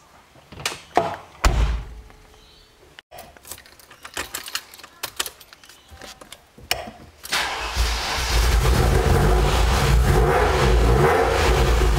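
Knocks and clicks of handling in the cabin, including a loud thump about a second and a half in. About seven seconds in, the Ferrari 308 GTSi's 2.9-litre V8 is started and catches, then runs steadily at idle through its Tubi stage 2 exhaust.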